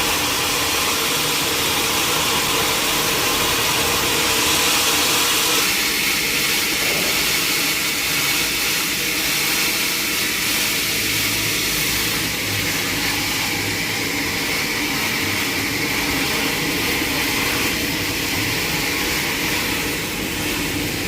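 Sawmill machinery running steadily, a loud continuous mechanical noise with a faint steady hum under it; its tone changes slightly about six seconds in.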